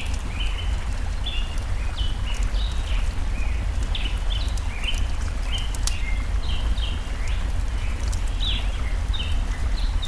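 Small birds chirping in quick short notes, several a second, over the steady low rush of a forest stream, with sharp crackles and pops from a wood fire.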